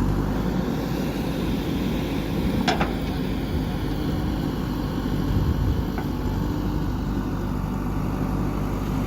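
Diesel engine of a JCB backhoe loader running steadily, with a sharp knock nearly three seconds in and a fainter one about six seconds in.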